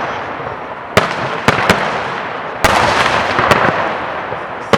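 Fireworks display shells bursting overhead: about six sharp bangs at uneven intervals, each trailing off into a long fading rumble of noise.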